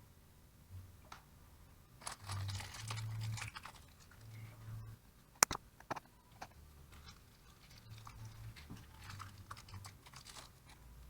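Rustling, scraping and light clicking as car alternator parts are handled during disassembly, with one sharp click about five seconds in.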